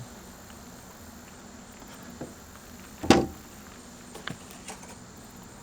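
A single sharp knock about three seconds in, with a few lighter clicks and taps before and after it, from tools being handled on the boat.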